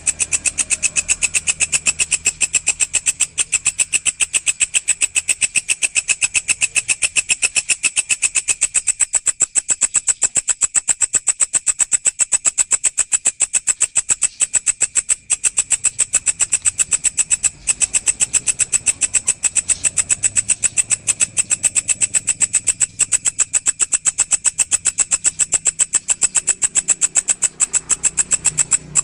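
Walang (singing grasshopper) stridulating: a rapid, even train of high-pitched pulses that keeps on without a break.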